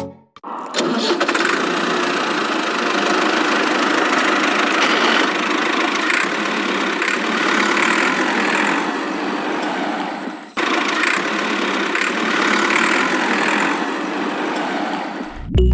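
A small motor running steadily with a high whine, stopping briefly and starting again about ten and a half seconds in.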